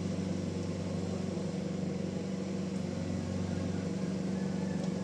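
Band sawmill machinery running with a steady, unchanging low drone.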